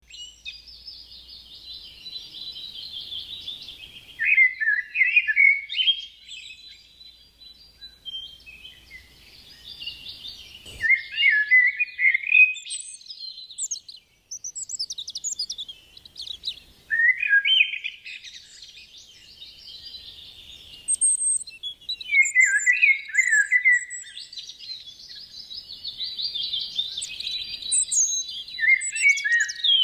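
A songbird singing, repeating a long warbling phrase about every five to six seconds, each phrase ending in lower, quicker notes. There is one brief click about eleven seconds in.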